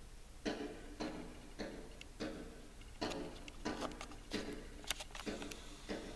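A bird knocking its beak on window glass: a run of sharp taps, roughly two a second and unevenly spaced, each with a short ring.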